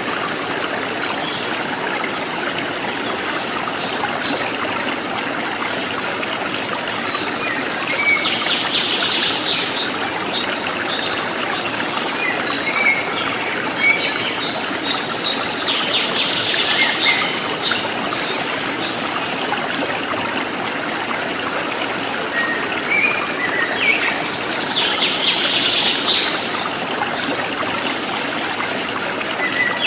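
Forest stream water trickling steadily, with wild birds chirping in short bursts several times over it.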